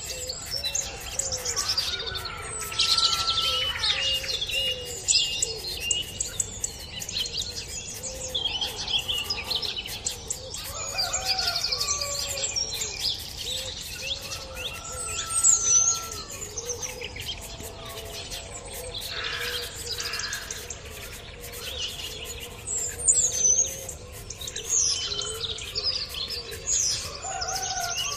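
Birds chirping and singing, many short overlapping calls and whistled glides going on throughout, a few louder ones standing out now and then.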